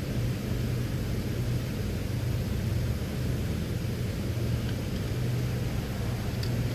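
Steady low mechanical hum of a running machine, with a faint small click or two near the end.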